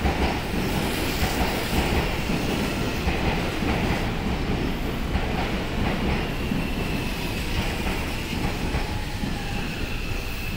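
Seibu 6000-series electric commuter train starting to pull away from the platform: a steady low rumble of running gear, with a thin electric whine from the drive coming in about halfway through and holding.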